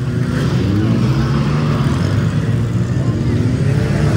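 Demolition derby car engines running loud, revving up and down unevenly over a steady engine din.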